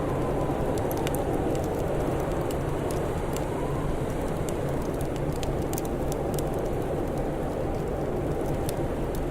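Wood fire crackling with scattered sharp pops over a steady low blizzard-wind roar, with a faint whistle of wind rising briefly twice.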